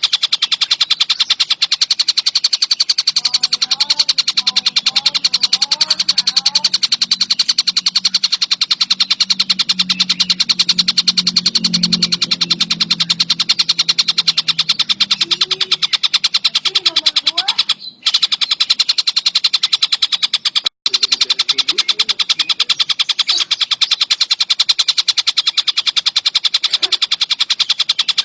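Collared kingfisher (tengkek buto) calling in an unbroken, fast chatter of sharp repeated notes. Under it there is a low hum for a while in the first half, and the sound cuts out briefly twice in the second half.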